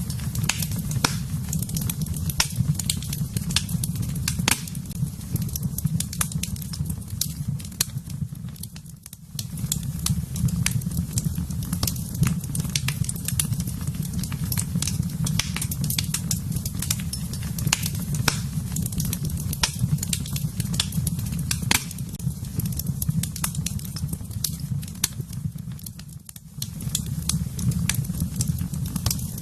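Fire burning in a fireplace: a steady low rumble with frequent sharp crackles and pops. The rumble drops away briefly twice, about a third of the way in and again near the end.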